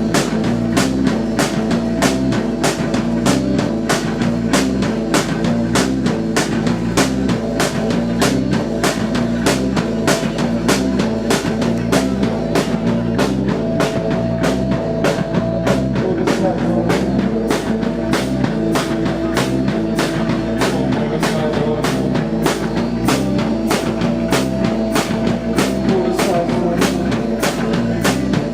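Live psychedelic rock band playing at full volume, with a steady driving drum beat under a sustained droning note.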